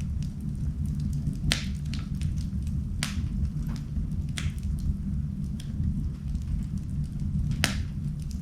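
Wood fire burning in a fireplace: a steady low rumble with irregular crackles and a few sharp pops, the loudest near the end.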